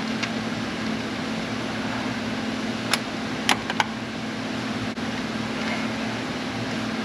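Steady machine hum, like a shop fan or air conditioner running, with three sharp clicks of hand tools on metal about three to four seconds in.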